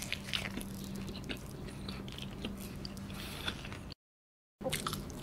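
Close-miked chewing of a mouthful of cheese pizza: soft, wet mouth clicks and smacks over a faint steady hum. The sound cuts out to total silence for about half a second around four seconds in.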